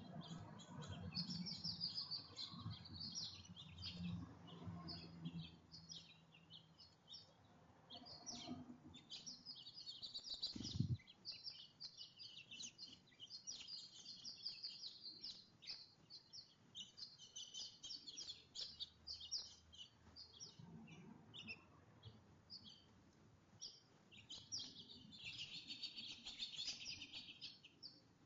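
Small songbirds chirping rapidly and continuously at a backyard feeder, several birds overlapping, with a denser trill near the end. A single low thump sounds about eleven seconds in.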